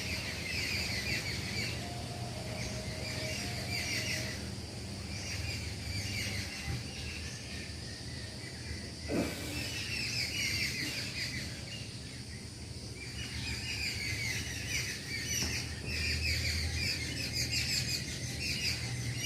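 Birds chirping in repeated short bouts of quick, high twittering every second or two, over a steady low hum, with a single knock about nine seconds in.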